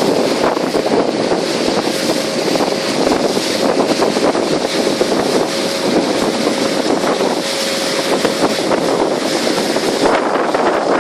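Motorboat running under way, with strong wind noise on the microphone and a faint steady tone through the middle.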